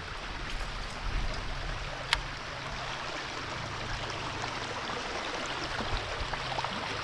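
River water rushing steadily over a shallow rapids, with one sharp click about two seconds in.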